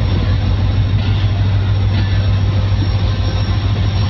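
Pakistan Railways passenger coaches of a departing train rolling past, a loud steady rumble with a constant low drone underneath.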